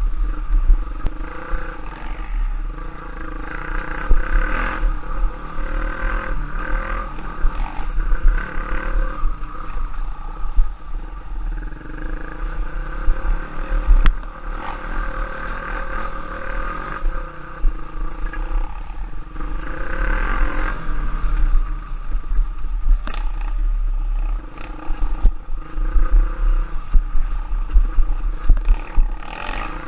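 Trail motorcycle engine revving up and down over rough ground, with heavy wind buffeting on the microphone and a few sharp knocks from the bike.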